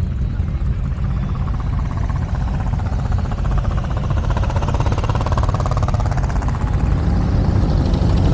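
Motorcycle engines running in street traffic, with one bike's engine getting louder and rising then falling in pitch around the middle as it goes by.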